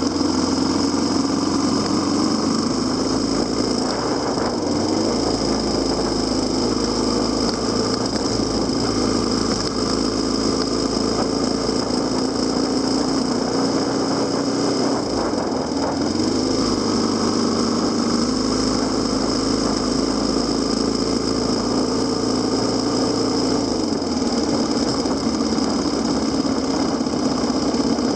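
Kawasaki KLX250SR's single-cylinder four-stroke engine running as the motorcycle is ridden, the engine note shifting up and down a few times with throttle and gear changes.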